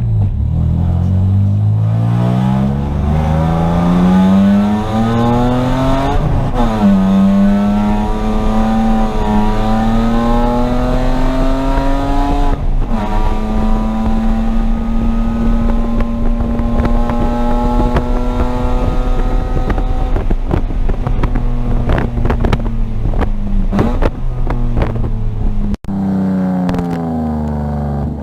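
Car engine heard at speed on a wet track, pulling up through the gears with two upshifts, then holding steady high revs for several seconds. Near the end comes a run of short sharp pops and clicks, and the revs fall away.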